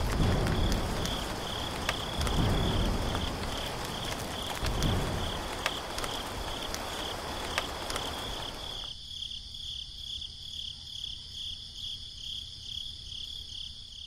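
Rain with low thunder rumbles and crickets chirping in a steady pulsing rhythm. The thunder swells at the start and twice more in the first five seconds. The rain cuts off suddenly about nine seconds in, leaving only the crickets.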